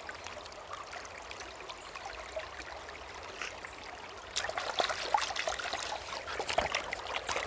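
Running stream water trickling over rocks at a waterfall, a steady hiss. From about four seconds in, a rapid scatter of short clicks and knocks joins it.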